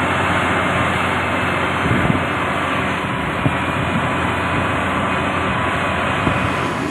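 Heavy road-building machine's diesel engine running steadily, with a few light knocks about two and three and a half seconds in.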